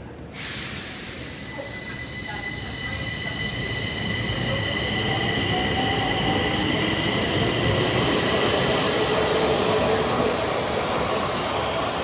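Stockholm Metro train running on the rails, with a steady high-pitched wheel squeal of several whistling tones over the rumble. The sound starts abruptly about half a second in and grows louder over the following several seconds.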